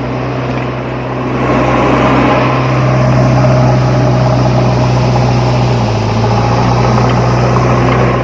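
A motor running steadily, with a strong low hum under a rattling whir, growing a little louder about a second and a half in.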